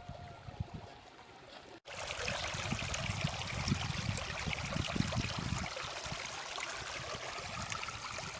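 Running water of a stream, a steady rushing that starts abruptly about two seconds in, with a low rumble underneath.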